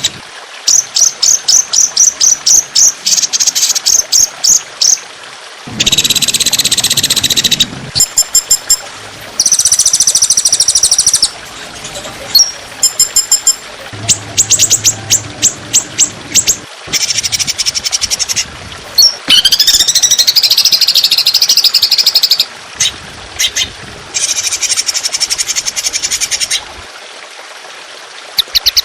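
Songbird calls spliced together as a training track: fast runs of sharp, repeated high notes and short trills, each call a second or two long, switching abruptly from one bird's call to another.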